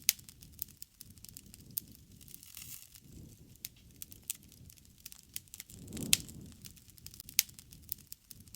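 Wood campfire burning: irregular sharp crackles and pops over a low rumble of the flames, with the loudest pops right at the start and about six seconds in.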